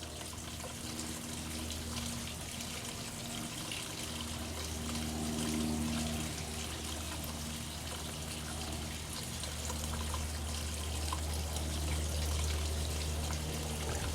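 Water trickling and splashing steadily from a concrete bird bath converted into a pump-driven waterfall fountain, with a steady low hum underneath.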